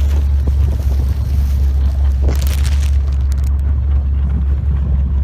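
A boat's motor running with a steady low drone, with a brief rush of wind noise about halfway through.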